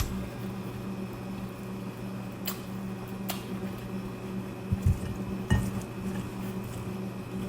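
Mukbang eating sounds: wet chewing of fried instant noodles, with a few sharp clinks of a utensil against a plate or bowl, the loudest about five seconds in. A steady low hum runs underneath.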